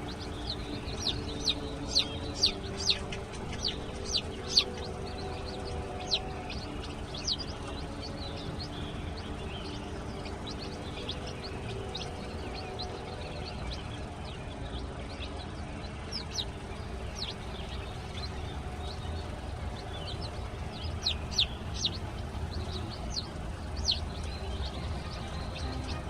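Chicks peeping: short, high-pitched peeps in irregular clusters, busiest in the first few seconds and again about two-thirds of the way in.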